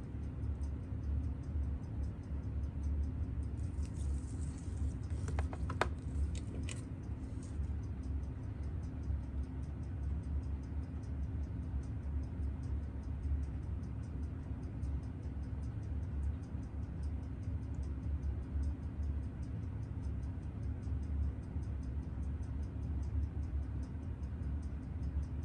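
A steady low hum with faint, fast, even ticking, roughly four to five ticks a second, and a few sharp clicks about five to seven seconds in.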